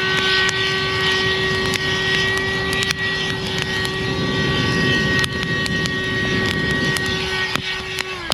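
Small electric motor blower running with a steady whine over a rush of air. It cuts off near the end, its pitch dropping briefly as it winds down.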